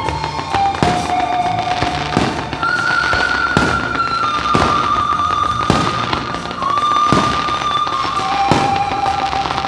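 Aerial fireworks shells bursting about once a second, each with a sharp bang and a short rumble. Underneath is a music soundtrack of long held notes stepping slowly from one pitch to the next.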